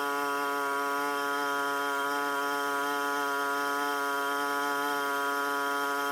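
A small engine running at a steady high speed, giving an even, unchanging drone with a slight waver in pitch.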